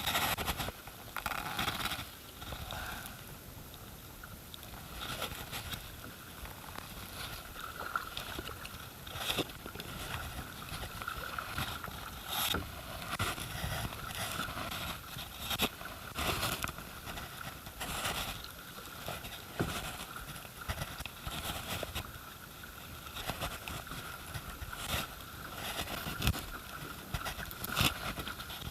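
Kayak paddling on a river: paddle blades dipping in and water sloshing against the hull, with irregular sharper splashes every second or few seconds.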